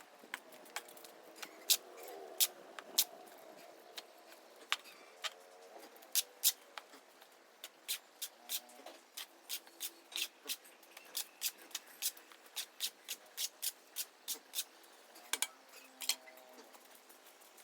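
A hammer tapping: sharp knocks, irregular at first, then a steady run of about two a second, with a quick double knock near the end.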